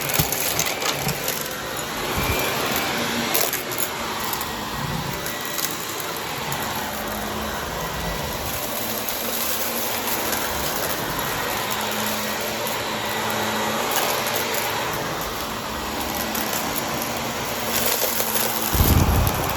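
Vacuum cleaner running steadily with its brushroll spinning, with scattered clicks and crackles of crunchy debris being picked up, and a low thump near the end.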